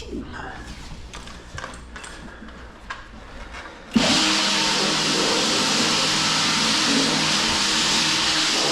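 A few light clicks and knocks, then about four seconds in a motor-driven machine switches on abruptly and runs steadily with a loud rushing hiss over a steady hum.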